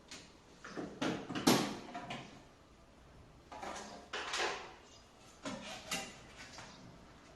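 Scraping and knocking from an air-conditioner indoor unit and its parts being handled during installation. There are three groups of short bursts: about one and a half seconds in (the loudest), around four seconds in, and near six seconds in.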